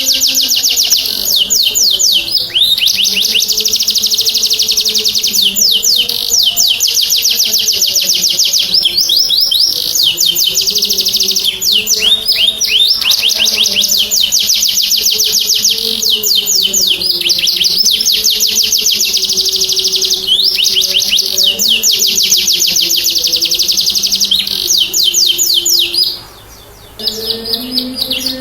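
Domestic canary singing continuously in long, fast trills and rolls, a full energetic ('gacor') song used as a lure to set other canaries singing. The song breaks off briefly near the end, then resumes.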